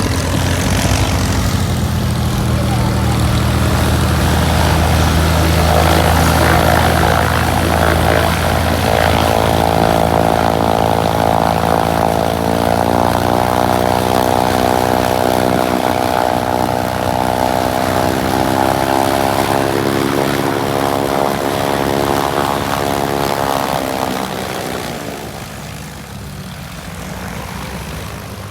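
Propeller-driven light aircraft engine flying a pass, its steady droning note shifting in pitch as it goes by. It fades away a few seconds before the end.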